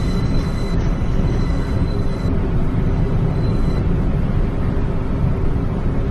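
New York City subway train running between stations, a steady rumble of wheels on rails heard from inside the car. A faint, thin high whine comes and goes during the first four seconds.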